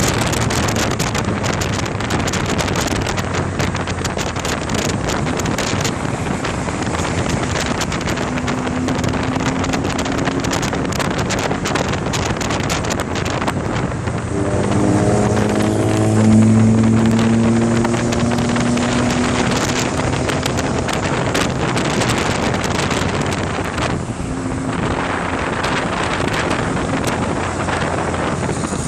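Car engine running with a tuned exhaust crackling and popping in many short cracks, under heavy wind noise. About halfway through, the engine revs up with a rising note and holds for a few seconds.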